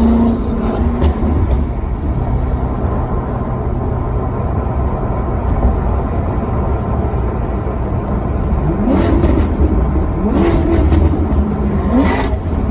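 Maserati Quattroporte Sport GT's V8 running with a loud, steady low rumble. The engine note falls at the start, and near the end comes three short rising revs, about a second and a half apart.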